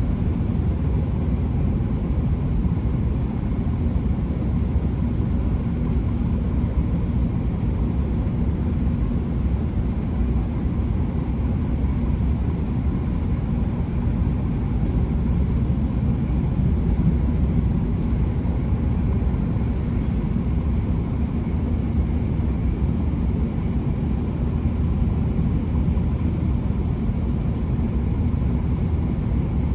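Steady running rumble inside a British Rail Class 165 diesel multiple unit on the move: the underfloor diesel engine and the wheels on the rails, deep and even throughout.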